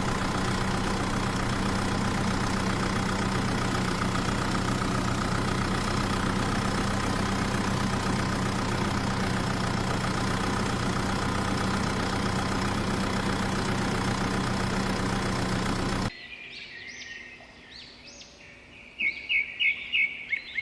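A steady mechanical drone with a low hum, like a running motor, that cuts off suddenly about three-quarters of the way through. Near the end there are several short, high chirps in quick succession.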